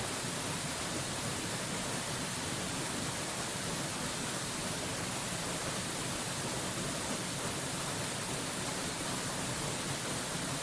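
Steady rushing of a waterfall, an even hiss that does not change.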